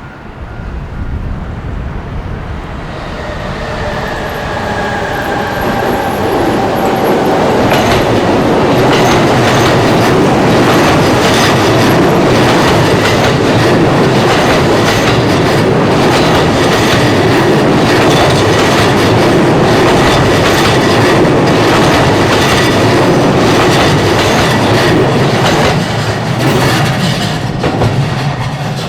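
Electric commuter trains passing close by in opposite directions, wheels clattering over the rails. The sound builds over several seconds, stays loud for most of the time, then fades near the end.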